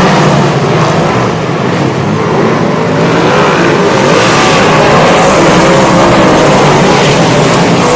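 360 sprint cars' V8 engines running hard on the track, several at once, their pitch rising and falling as they rev through the turns.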